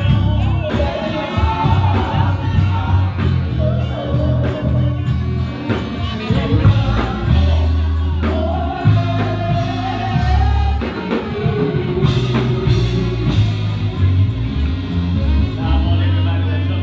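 Gospel music with singing over a band, with a stepping bass line and drum hits.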